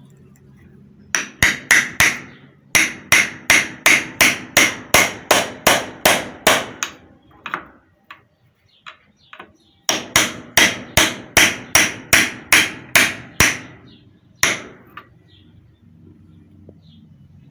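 Hammer blows driving the cooling fan onto the shaft of a centrifugal water pump's motor: runs of sharp, ringing strikes about three a second, broken by a pause of a few seconds, with a single last blow.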